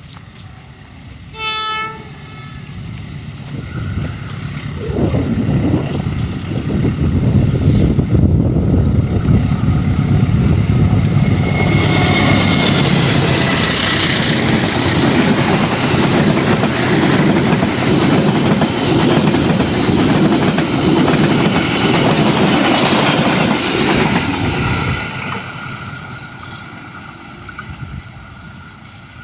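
A short blast of a CC201 diesel-electric locomotive's horn, then the train's rumble and wheel clatter build up, stay loud as the train goes past, and fade away near the end.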